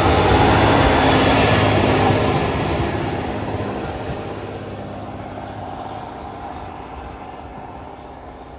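Diesel train running through the station, loud at first and then fading steadily as it moves away.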